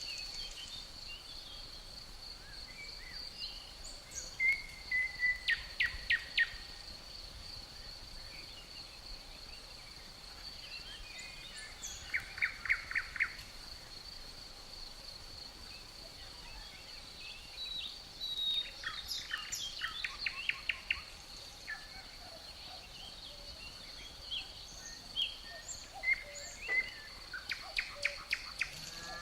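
Crickets trilling in one unbroken high tone, with songbirds singing in short bursts of quickly repeated notes every few seconds.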